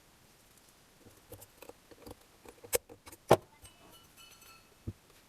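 Small metal parts or tools clinking and knocking as they are handled, with two sharp knocks in the middle and a brief metallic ring after them.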